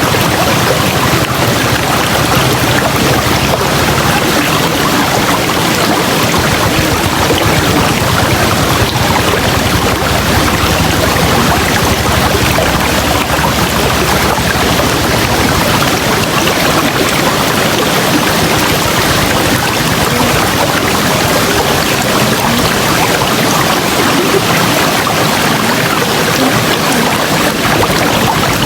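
River water flowing, a steady rush with no let-up.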